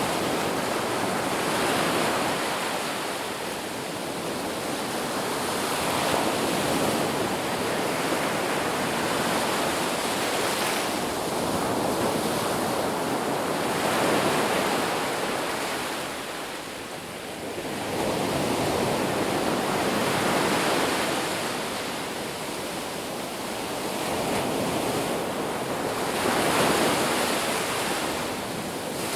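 Ocean surf breaking on a beach: a continuous wash of waves that swells and eases every few seconds, with a brief lull about two-thirds of the way through.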